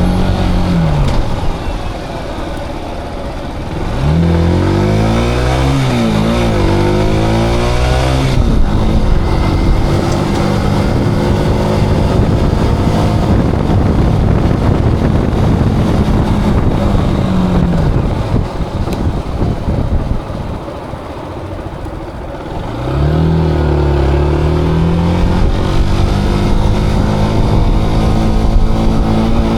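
Zontes cruiser motorcycle engine heard on the ride: it winds down and runs quieter for a couple of seconds, then pulls away with rising revs that drop back at each gear change, cruises steadily, slows again around the middle, and accelerates up through the gears once more near the end. Wind rush runs under the engine.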